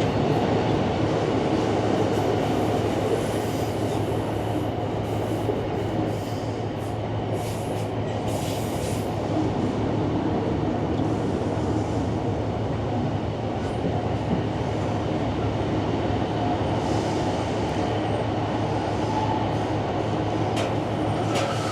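Steady running noise heard from inside the carriage of a Northern diesel passenger train: an even rumble of the wheels on the track with a steady low hum underneath.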